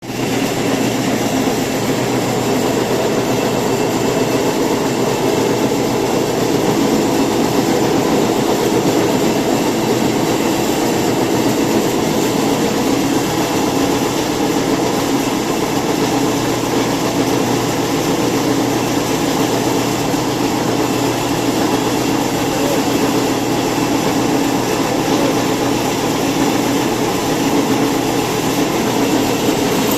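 Woodworking machine running with a steady, unbroken mechanical noise and a faint high whine.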